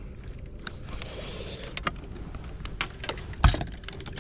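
Fishing tackle being handled on a boat: scattered small clicks and taps, with one sharp heavy knock about three and a half seconds in, over a steady low rumble.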